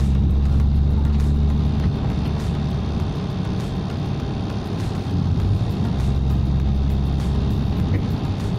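Proton Waja's engine and road noise heard inside the cabin while driving, the engine holding steady at about 2,000 rpm. The engine note swells louder for the first couple of seconds and again past the middle.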